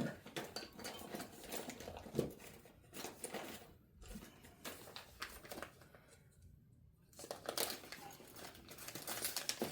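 Scattered light clicks and rustling handling noise of a fret rocker being moved and set down across a guitar neck's frets, busier near the end.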